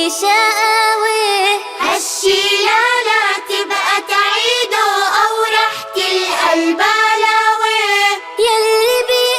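Children's song: music with a high child's voice singing a melody.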